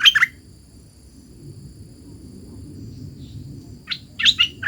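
Hoạch thơm decoy songbird singing short bursts of quick whistled notes, one right at the start and another about four seconds in, with a quiet pause between. A steady, thin high-pitched tone sits underneath.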